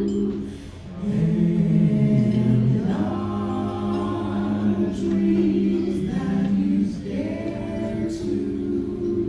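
A vocal ensemble singing held chords in close harmony over backing music, with the chord changing about a second in and again near three and seven seconds.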